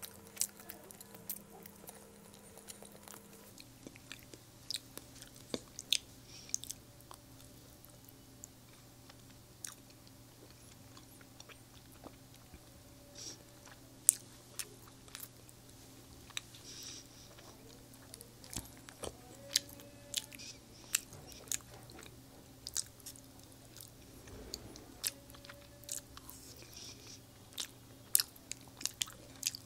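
Close-miked eating sounds of someone chewing and biting Indian sweets, with scattered sharp mouth clicks and smacks throughout. A faint steady hum lies underneath.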